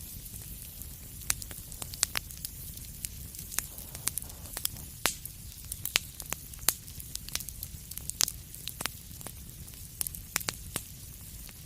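Fire crackling in a fireplace: irregular sharp pops and snaps, several a second and varying in strength, over a steady low rumble and hiss.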